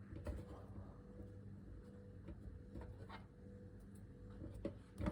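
Quiet room with a faint steady hum and a few soft taps and rubs from handling food on a surface, the clearest about half a second in and near the end.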